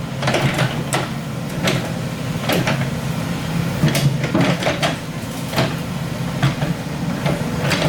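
Excavator's diesel engine running steadily, with a dozen or so sharp knocks and clanks at irregular intervals.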